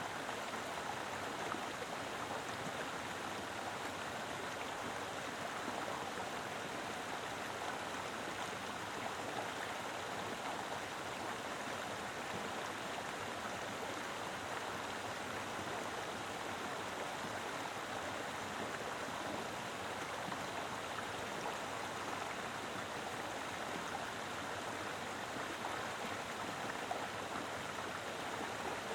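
Mountain river flowing over rocks: a full, steady rush of water with no breaks or separate events.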